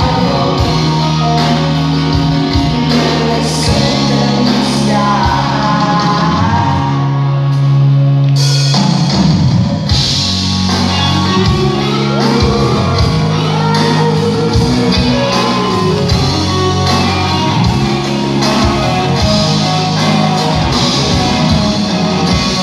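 Live rock band playing with singing and shouting voices, heard in a large hall. A low chord is held for a couple of seconds near the middle, then the full band comes back in with crashing cymbals.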